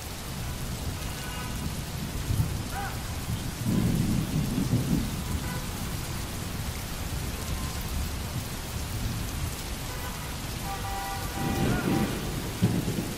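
Steady pouring rain hissing and splashing on a hard surface, with a low roll of thunder about four seconds in and another near the end.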